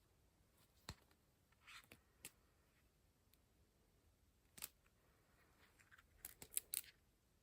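Quiet paper-crafting sounds of paper and small tools being handled: a light knock about a second in, a few scattered clicks, then a quick run of four or five sharp clicks near the end.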